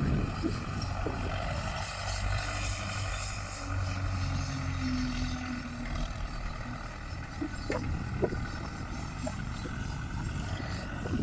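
Tractor engine running steadily while working a field, with a few short high chirps a little past the middle.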